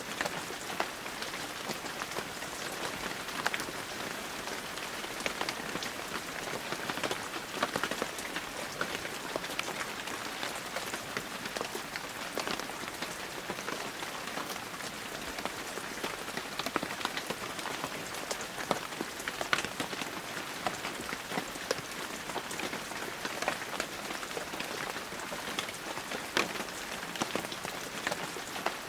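Heavy rain falling steadily, a dense even hiss with many individual drops pattering and ticking on surfaces.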